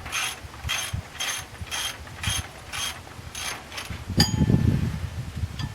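Ratchet wrench worked back and forth on the water pump bolts, its pawl clicking in short strokes about twice a second. Near the end comes a sharp click and a low rumble.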